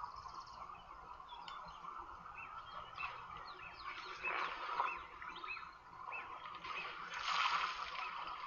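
Wild birds calling in a run of short, repeated chirps, about two a second, over a steady outdoor hiss. A louder rush of noise swells about seven seconds in.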